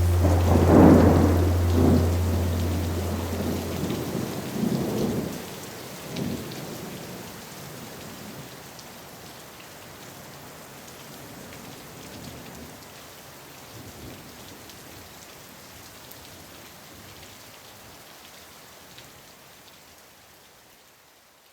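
Thunder rumbling over steady rain. The rumble swells several times in the first six seconds or so, then dies away, and the rain slowly fades out.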